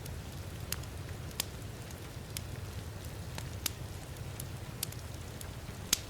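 Wood fire crackling in a fireplace, with sharp irregular pops, the loudest near the end, over a steady hiss of heavy rain and a low rumble.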